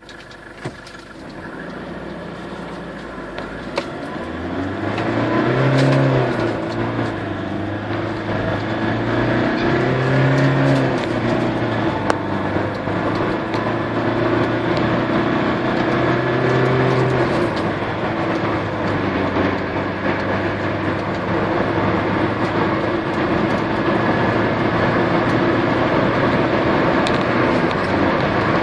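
Toyota Innova's 2.5-litre four-cylinder turbodiesel accelerating hard from a standstill. The engine note climbs and drops back at each gear change several times, then settles into a steady high-speed drone with tyre and road noise and scattered knocks from the bumpy road.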